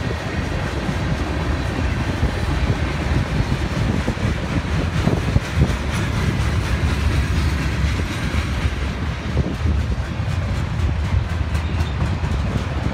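Freight cars of a mixed freight train rolling past at speed: a steady rumble and rattle of steel wheels on the rails, with some clickety-clack.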